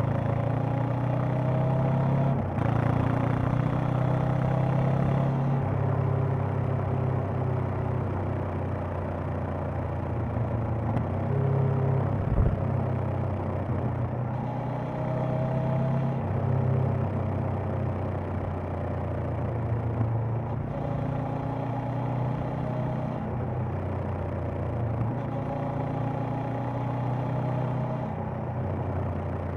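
Honda CB500X's parallel-twin engine and exhaust on the move, the revs climbing and dropping several times as the rider works the throttle and gears. A single brief knock comes about halfway through.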